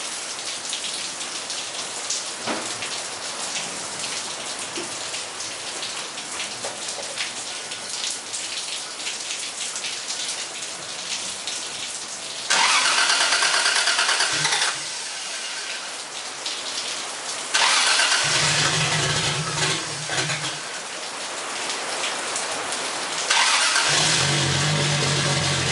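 Rain falling for about twelve seconds, then the 1991 Supra's built 7M-GTE turbo straight-six is cranked over in three tries on a cold start. The second and third tries carry a low drone under the cranking. It starts badly, running on E-85 with a very poor tune and untimed cams.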